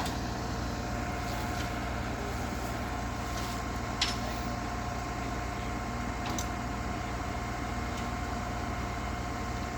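Recovery truck's engine running steadily with a constant hum, with one sharp click about four seconds in.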